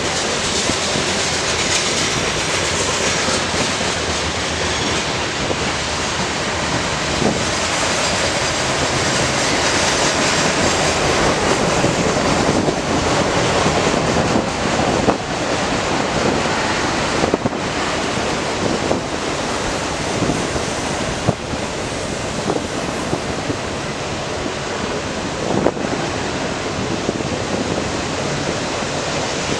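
Norfolk Southern freight train rolling past, a steady loud rush of wheels on rail with a few faint knocks along the way.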